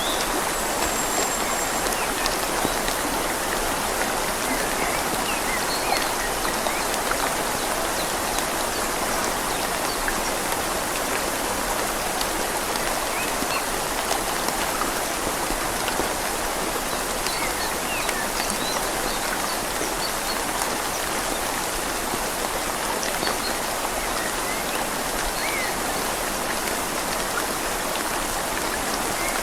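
Steady rain falling on leaves over a gently flowing river, an even, unbroken wash of water sound.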